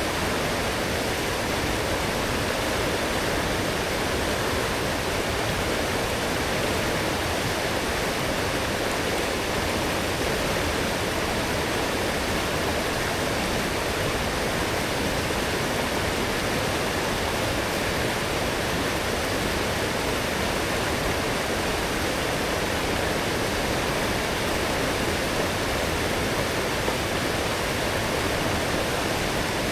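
A strong forest stream swollen after heavy rain, its water rushing steadily with an even, unbroken sound.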